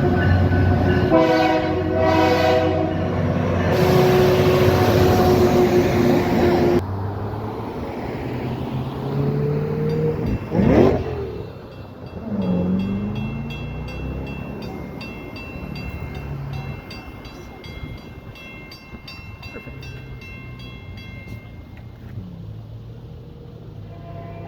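A passenger train's horn sounds in two blasts, then a train rushes past, and that sound cuts off suddenly. Later a level-crossing bell rings in steady, even strokes and stops near the end.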